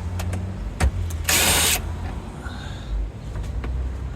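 A few sharp clicks and a brief loud scraping rustle, about a second and a half in, of hands working a plastic interior trim piece loose, over a steady low hum.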